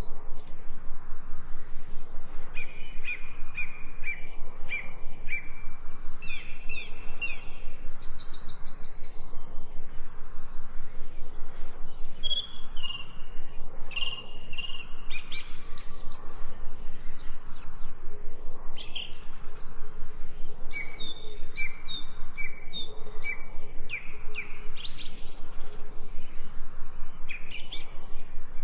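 Several birds singing and calling over one another: runs of short repeated notes, chirps and quick whistled glides.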